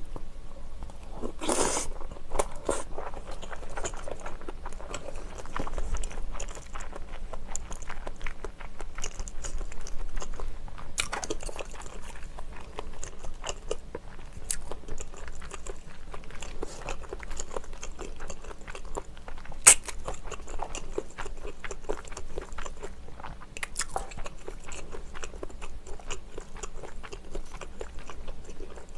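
Close-miked chewing of a mouthful of rice ball, spicy tteokbokki and fish cake: wet mouth sounds and crunching, with a louder crunch about a second and a half in. Wooden chopsticks stirring and tapping in the disposable tteokbokki container, with one sharp click about twenty seconds in.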